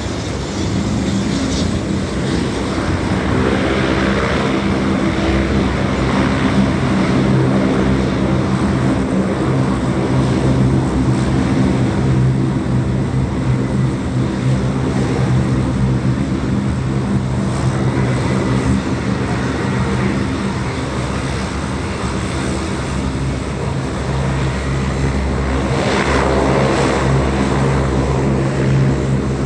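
Turboprop engines of a NOAA WP-3D Orion running, a steady, droning propeller note with its overtones, swelling louder about four seconds in and again near the end.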